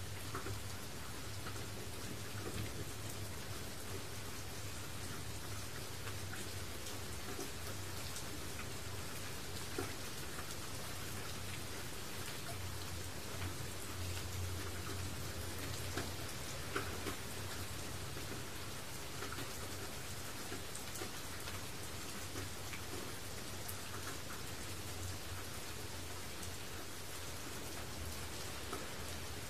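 Steady rain falling: an even hiss of rain with scattered individual drops ticking on a surface, over a low steady rumble.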